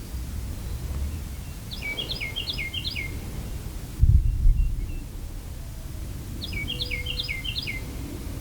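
A songbird sings the same short phrase twice, each a run of four quick down-slurred whistles, over a low rumble of wind on the microphone. A louder low rumble swells about four seconds in.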